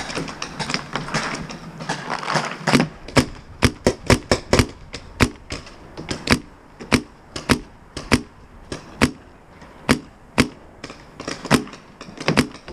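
Paintball markers firing: a long irregular run of sharp pops, some in quick pairs and clusters, starting about three seconds in.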